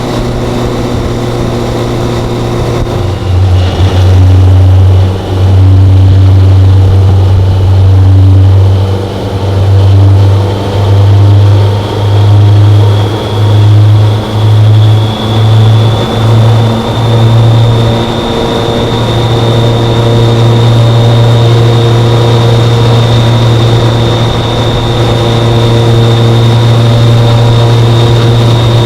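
BMW K1100LT motorcycle's inline four-cylinder engine running at a steady cruise, a loud low drone with a faint high whine above it. For several seconds in the middle the sound swells and dips about once a second, then settles back to an even drone.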